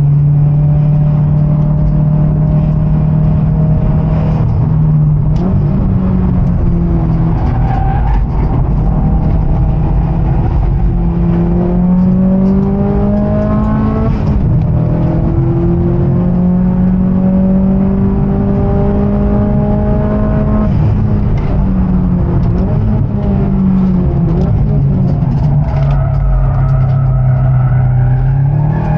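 Subaru WRX STI's turbocharged flat-four engine heard from inside the cabin at racing speed, a steady drone whose pitch climbs slowly under acceleration and drops back at gear changes and braking several times, over a constant rush of road and wind noise.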